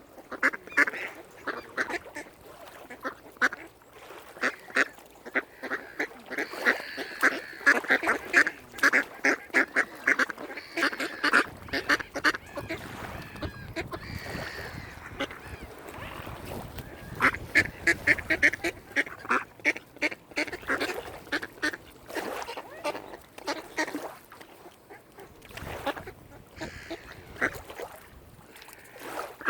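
A flock of waterfowl calling: many short calls in quick succession, busiest in the middle and again later on.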